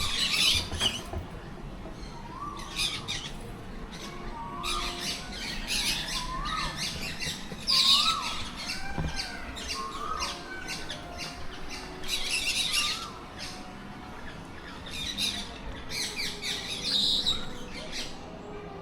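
Parrots squawking: harsh, high calls repeated every second or two, mixed with short rising-and-falling chirped notes from other birds.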